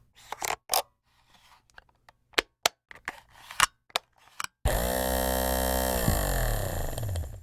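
A string of sharp mechanical clicks and knocks, then a small motor starts suddenly about four and a half seconds in, runs steadily, and winds down with falling pitch near the end.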